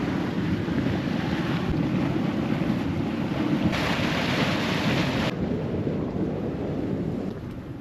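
Hot spring water churning and sloshing, with wind rumbling on the microphone. A brighter hiss rises for about a second and a half around four seconds in.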